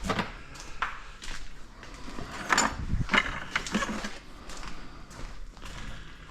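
Footsteps with irregular knocks and clatter, a handful of louder knocks between about two and four seconds in.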